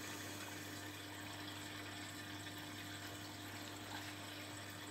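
Beko WTB740E1W washing machine filling with water at the start of its daily quick 30 wash: a faint, steady rush of water with a steady low hum underneath.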